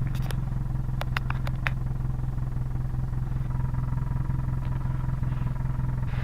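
Vehicle engine running steadily with an even low hum, with a few short sharp clicks about a second in.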